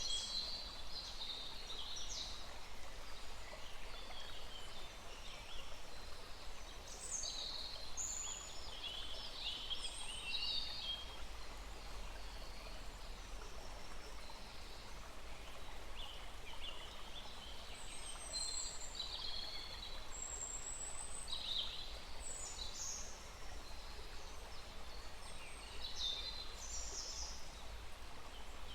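Small forest stream flowing steadily, with songbirds calling and chirping in short high-pitched phrases throughout.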